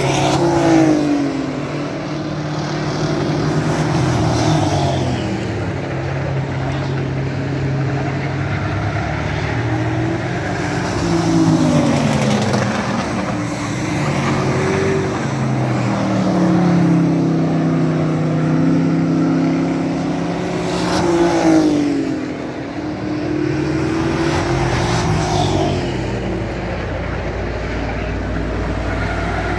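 Race truck engines running at racing speed, their pitch falling sharply as trucks go past and lift for the turns, then climbing again as they accelerate, over and over.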